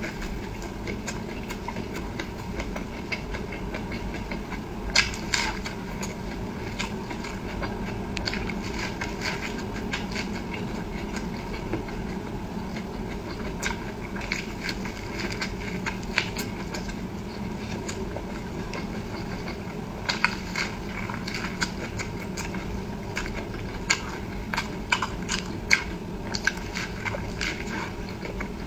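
A person eating close to the microphone: irregular wet chewing clicks and crunches, with a few louder smacks spaced through, over a steady low background hum.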